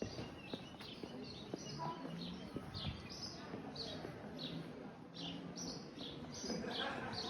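Small birds chirping: a busy run of short, high, downward-sliding chirps, two or three a second, over a faint low background murmur.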